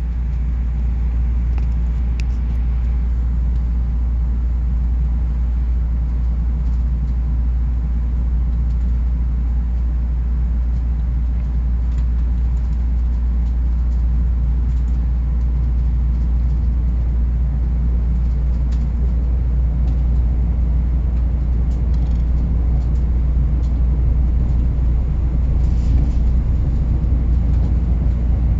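Nuriro passenger train running with a steady low rumble that grows slightly louder toward the end as it picks up speed.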